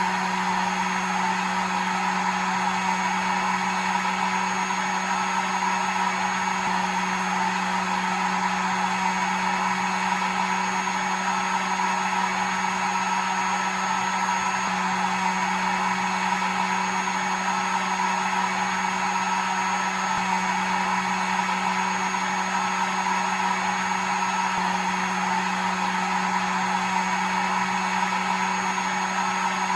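Electric hair dryer running steadily: a constant motor hum under an even rush of blown air.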